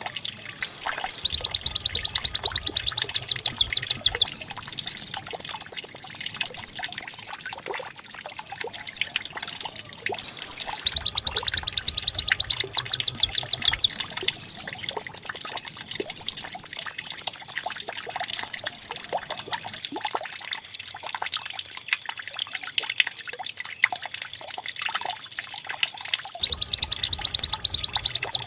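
White-eye (pleci) song played as a lure recording: rapid high trills alternating with wavering slurred phrases. The same phrase sequence repeats twice, then drops away for several seconds before the trill returns near the end.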